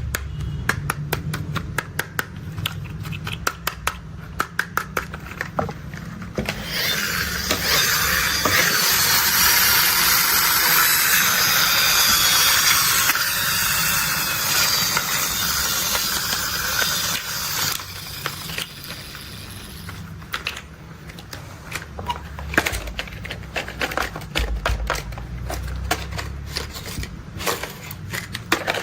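Plastic toy construction vehicles being handled: rapid clicking and tapping, broken by a long stretch of rustling, hissing noise lasting about ten seconds, then scattered clicks again over a low steady hum.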